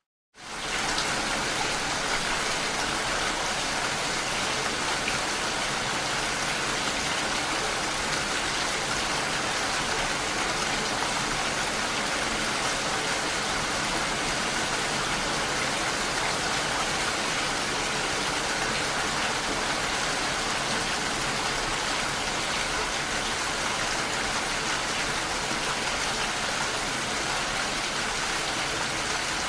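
Steady, even rain noise that comes in abruptly after a moment of silence at the very start.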